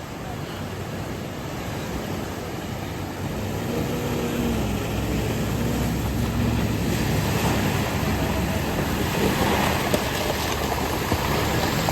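Steady rush of flowing water from the waterfall stream, growing louder over the first few seconds.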